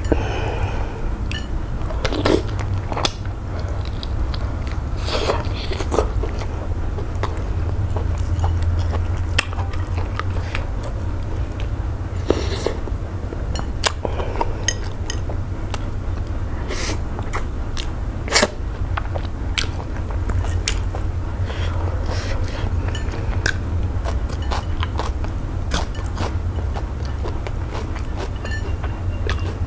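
Close-miked chewing and wet mouth sounds of eating eba (garri dough) with slimy okro-melon soup by hand, with scattered sharp clicks and smacks. A steady low hum runs underneath.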